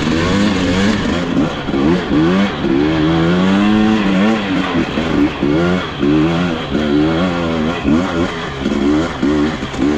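Dirt bike engine revving hard, its pitch rising and falling again and again as the throttle is worked over rough trail.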